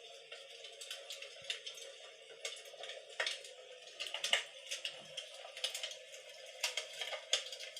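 Crackling-fire sound effect played through the small built-in speaker of an electric imitation fireplace: irregular crackles and pops over a steady thin hiss.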